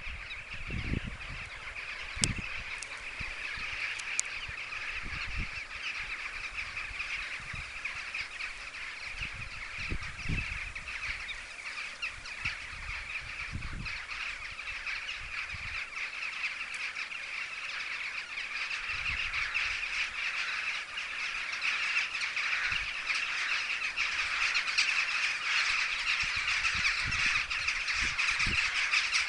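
A dense chorus of many birds calling at once, a continuous chattering din that grows louder in the second half, with occasional gusts of wind buffeting the microphone.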